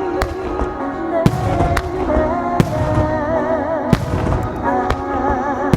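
Starmine fireworks barrage: several sharp shell bursts about a second apart over music playing along with the show.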